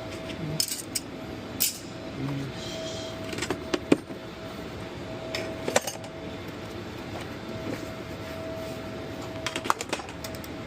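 Hand tools clicking and clinking as they are handled, in scattered sharp knocks, the loudest about four seconds in, over a steady background hum with a faint steady tone.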